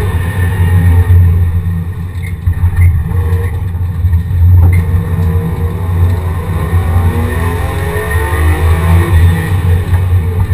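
Race car engine heard from inside the stripped, roll-caged cabin, driven hard through a slalom course: a loud low drone with the revs rising and falling, climbing steadily for a few seconds past the middle.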